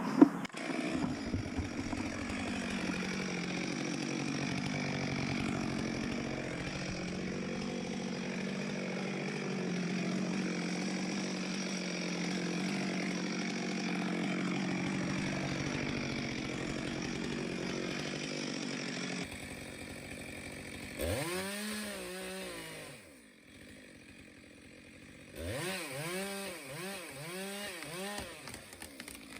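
Chainsaw cutting wood, running steadily under load for most of the time, with a sharp knock just at the start. Near the end the saw is revved in quick blips, each rising and falling in pitch.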